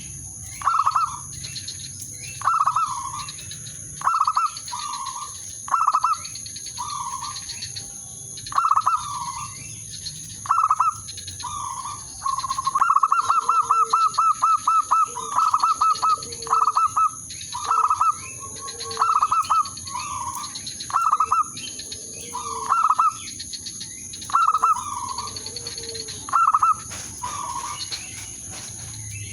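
Zebra dove cooing, the calling of a lure bird meant to draw in rival doves. Short high coos come in phrases about every two seconds, with a fast run of stuttering notes about 13 seconds in. A steady high-pitched whine runs underneath.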